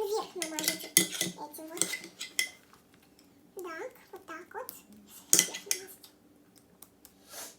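Cutlery clinking and knocking against a plate and dishes in a few sharp separate clicks.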